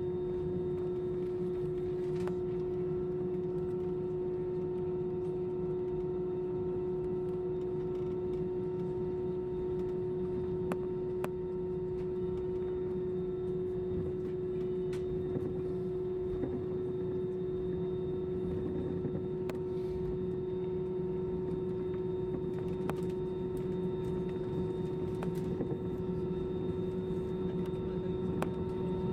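Airbus A320 cabin noise while taxiing: a steady drone of the engines at idle, with one constant hum tone over a low rumble and a few faint clicks.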